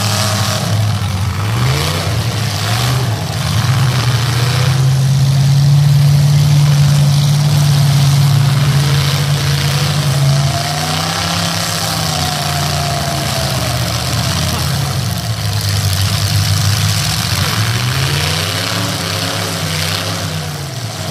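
Demolition derby car engines revving hard and falling back, one held at high revs for several seconds in the middle, with a few sharp crashes of cars hitting each other in the first five seconds.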